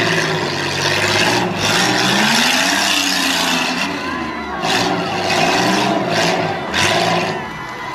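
Demolition derby cars' engines revving up and down, with several sharp bangs.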